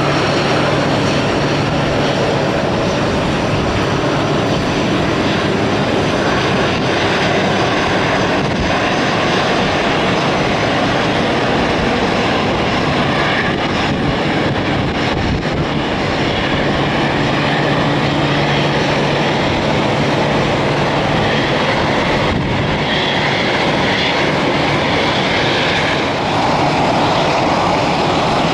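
Jet airliner engines running at a steady level, with a faint whine over a broad rushing noise and wind rumbling on the microphone.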